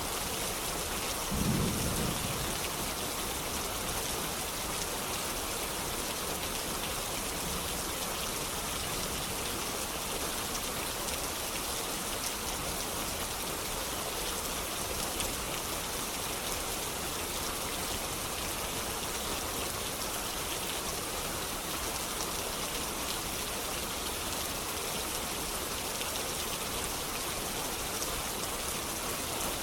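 Steady rain hissing, with a brief low rumble of distant thunder about a second and a half in.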